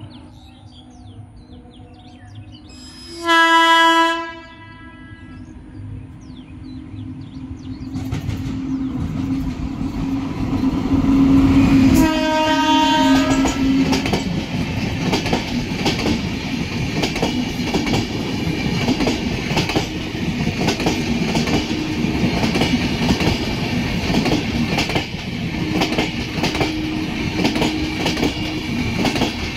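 Express train's electric locomotive sounding its horn twice: a short blast while still approaching and a longer one, about two seconds, as it reaches the crossing. The rumble builds, then the train's LHB coaches roll past with steady clickety-clack of wheels over rail joints.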